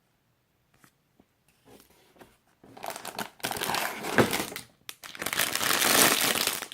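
Plastic bag of Lego pieces crinkling as it is handled, starting about two and a half seconds in and getting louder toward the end.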